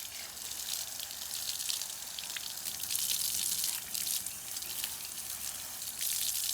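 Running tap water splashing over a vacuum cleaner filter part as it is rinsed, a steady hissing spatter that swells a little now and then.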